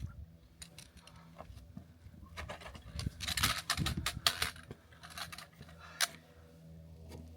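Hiking footsteps scuffing and scraping on bare rock while climbing, with the small rattle and jangle of backpack gear. The scrapes come thickest about three to four and a half seconds in.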